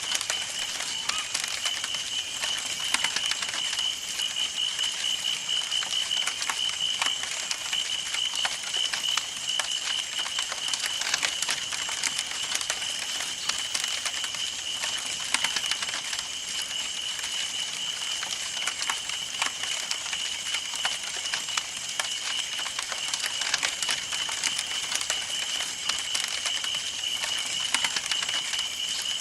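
Campfire burning with continuous irregular crackling and snapping of the wood, over a steady high-pitched trill.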